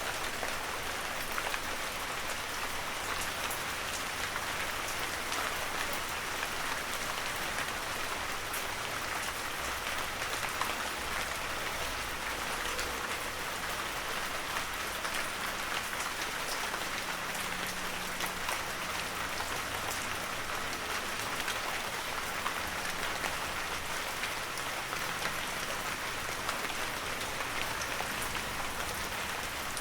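Heavy rain falling steadily in a forest, a dense even hiss of drops with many small individual patters on the surfaces.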